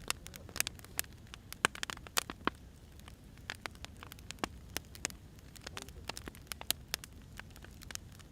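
Firewood burning and crackling: irregular sharp pops several times a second over a low steady rumble of the fire.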